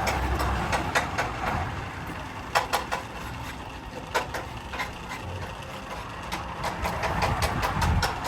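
A motor running steadily, with irregular sharp clicks and knocks scattered over it.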